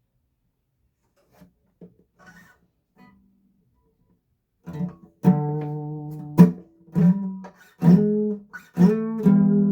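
A few faint small knocks, then, about five seconds in, a guitar starts being strummed: chords struck about once a second and left to ring.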